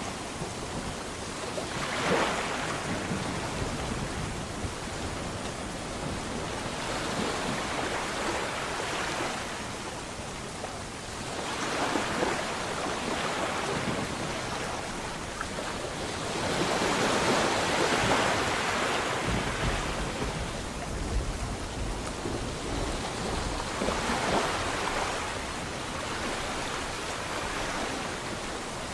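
Sea waves breaking and washing ashore in slow surges every several seconds over a steady hiss, with a low rumble about two-thirds of the way through.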